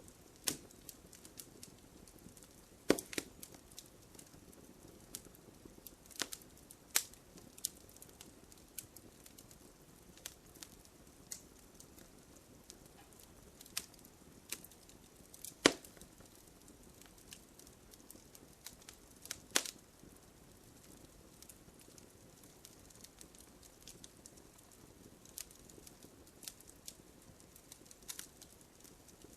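Wood campfire crackling: irregular small ticks and pops over a faint steady hiss, with a few louder sharp snaps scattered through.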